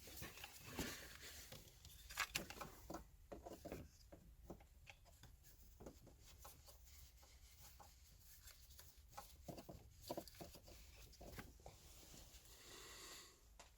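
Near silence: room tone with scattered faint clicks and taps, and a brief faint pitched squeak or hum about a second before the end.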